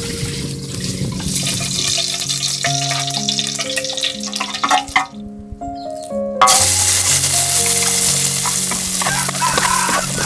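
Hot oil sizzling in a pan, then a sudden, much louder sizzle about six seconds in as chopped shallots are tipped into the oil and fry. Soft background music with held notes plays under it.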